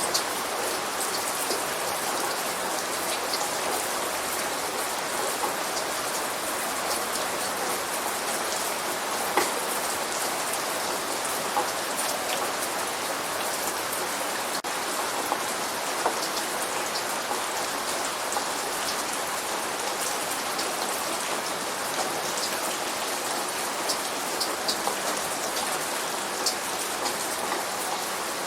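Steady light rain falling, with scattered louder drops ticking sharply on a surface.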